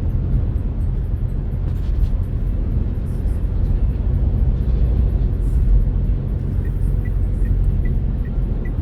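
Steady road and engine noise inside a Renault Kardian's cabin while driving, a low rumble. Faint light ticks come about two or three a second near the end.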